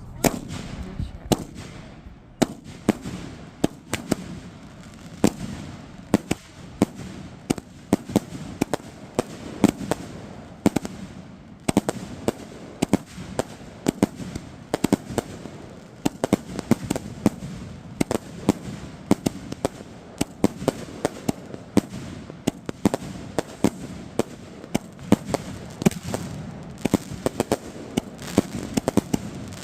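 A 72-shot consumer firework cake firing, a rapid series of sharp bangs and crackles, about two or three shots a second, with no let-up.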